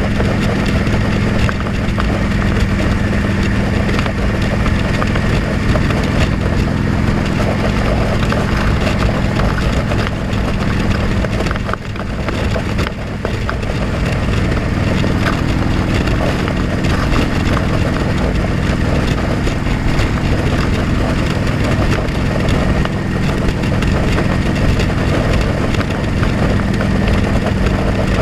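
Motorcycle engine running steadily, heard from a helmet-mounted camera, with a broad rush of noise over it; the engine note eases briefly about halfway through.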